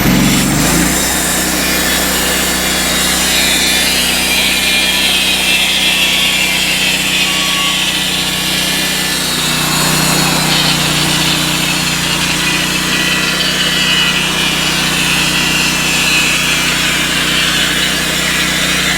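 Norwood portable band sawmill sawing a one-inch board off a log. The engine revs up in the first second, then runs steadily under load while the band blade cuts through the wood with a continuous high hiss.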